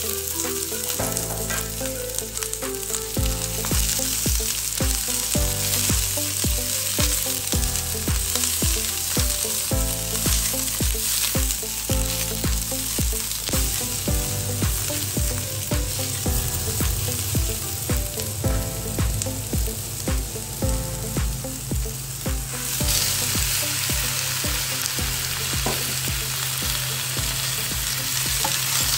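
Celery and sliced onions sizzling in hot oil in a stainless steel wok, stirred with a silicone spatula. The sizzle grows louder and brighter about three-quarters of the way through as pork pieces go into the wok. Background music with a steady beat plays underneath.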